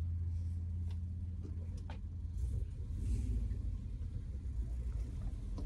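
Car engine idling, heard inside the cabin as a steady low drone that turns into a rougher, uneven rumble about two seconds in, with a few faint clicks.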